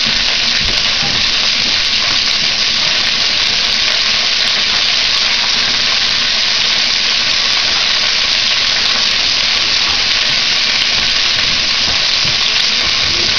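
Chicken legs frying in hot olive oil in a pan, a loud steady sizzle as the skin browns.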